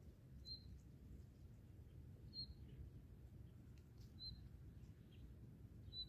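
Near silence, broken by a bird's short high chirp four times, about every two seconds, over a faint low rumble.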